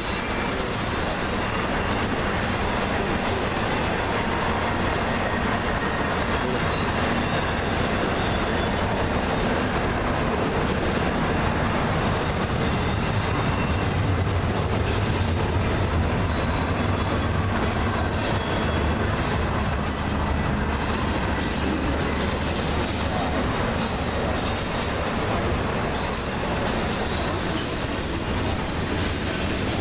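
Freight train cars rolling steadily past on the rails, with some wheel squeal.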